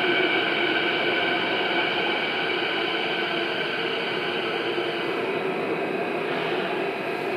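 Canada Line electric train running along the platform in an underground station: a steady whine with several held tones over a rushing rumble, slowly getting quieter.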